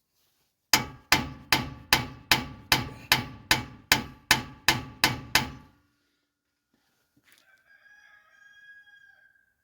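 Hammer driving a tight-fitting axle bearing into a 9 1/4 differential's axle tube: about thirteen evenly spaced, ringing metal blows, roughly two and a half a second, then they stop.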